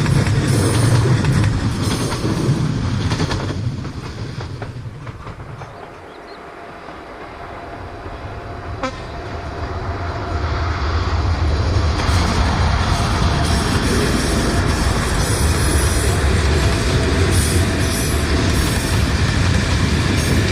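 Trains running on the line: the rumble and wheel clatter of one train fade away about a third of the way in, then a train approaches and its rumble and clickety-clack grow loud and steady for the rest of the stretch.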